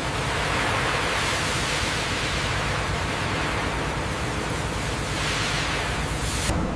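Steady industrial machinery noise: an even rushing hiss over a low rumble, with the high hiss briefly cutting out near the end.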